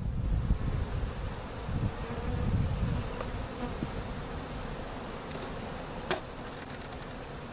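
Honey bees buzzing steadily around the hive, with a low rumble in the first few seconds and a single sharp click about six seconds in.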